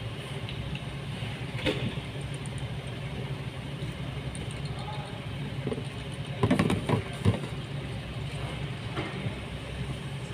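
Mitsubishi Pajero engine idling with a steady low hum, warm and left running so the automatic transmission fluid can be checked hot. A short louder noise comes about two seconds in, and a few more around six to seven seconds in.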